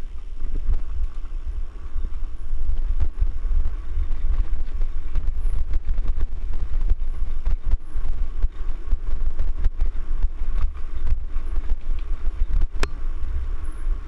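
Mountain bike ridden over rough trail: wind rumbling heavily on the microphone, with frequent sharp rattles and knocks from the bike over bumps.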